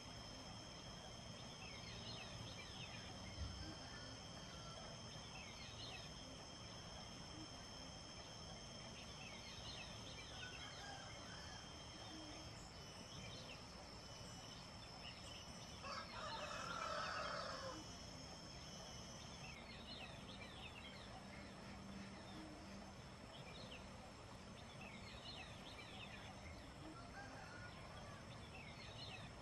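Songbirds chirping here and there over steady high-pitched insect drones, two of which stop partway through. About sixteen seconds in a louder, lower bird call lasts about two seconds.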